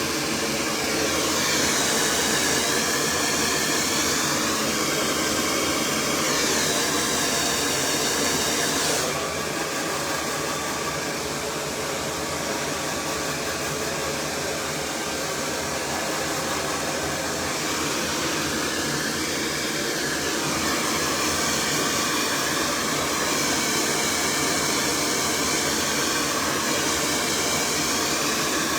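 Cloud 9 hair dryer blowing steadily while a brush is worked through the hair. Its hiss sweeps up and down in pitch as the nozzle moves, and the highest part of the hiss drops away about nine seconds in.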